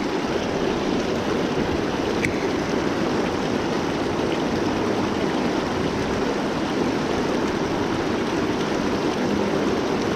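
Creek water rushing, a loud, steady, unbroken wash of noise.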